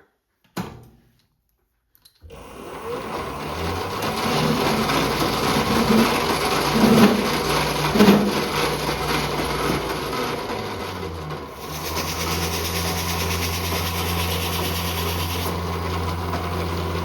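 A small metal lathe's motor is switched on after a click and runs steadily, spinning up over the first couple of seconds. About eleven seconds in, the sound settles into a steadier, lower hum.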